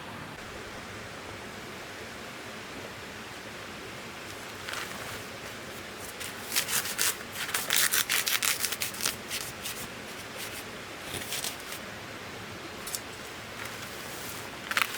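Rapid, gritty scraping strokes over a steady background hiss. They come in a cluster starting about a third of the way in and are densest around the middle, with a brief burst again at the very end.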